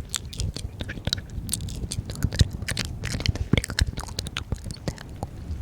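Close-miked ASMR mouth sounds: quick, irregular wet clicks and smacks of the lips and tongue, several a second, with almost no whispering.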